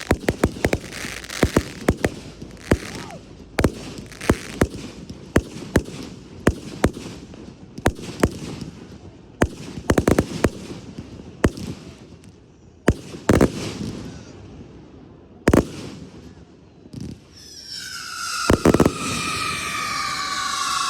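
Aerial fireworks going off in quick succession: many sharp bangs and crackling reports, thinning out to a few scattered booms in the second half. Near the end a loud, sustained whistle-like tone with several overtones comes in and slowly falls in pitch.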